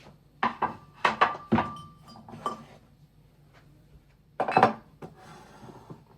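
Dishes and cutlery being handled, clattering and clinking in several quick knocks, one of them ringing on briefly; another cluster of clatters comes near the end.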